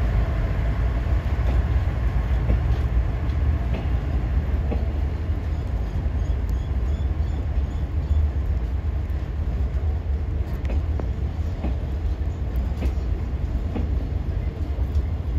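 Train of Chiki 5500 flat cars loaded with long rails rolling slowly past: a steady low rumble of wheels on the track, with scattered faint clicks.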